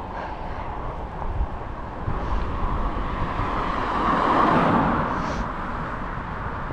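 Wind rushing and buffeting on an action camera's microphone while riding a bicycle, with tyre and road noise. The rushing swells louder in the middle and then eases.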